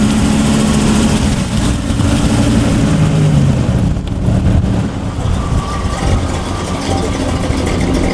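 Dodge Viper RT/10's V10 engine running at low revs as the car rolls slowly past.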